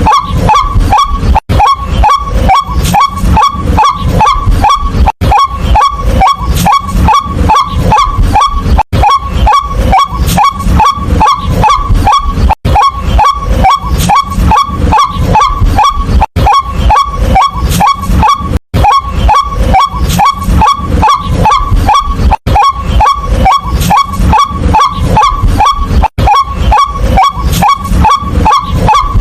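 White-breasted waterhen calling: a rapid, repeated, downward-bending 'kwak' note, about three to four a second, with brief breaks every few seconds.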